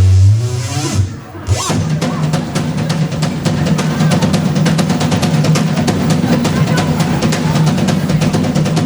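A live heavy band kicks in after a held note cuts off about a second in. Fast, dense drumming runs over a steady, distorted low bass.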